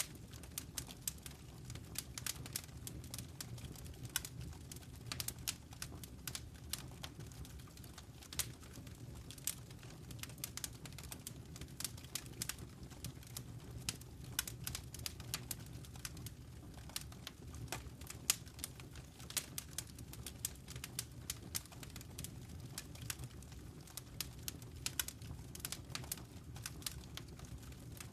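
Wood fire in a fireplace crackling: many sharp, irregular pops and snaps over a steady low rumble.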